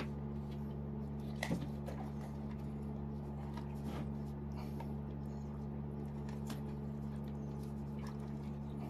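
Faint chewing and soft mouth sounds of someone eating chicken by hand, with a few small clicks, over a steady low hum.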